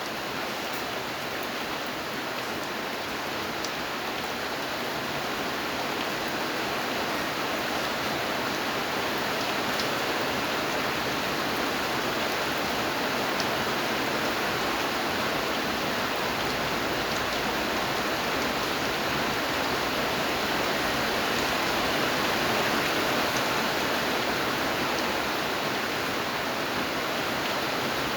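Steady rain: an even hiss with a few faint drop ticks, slowly growing a little louder.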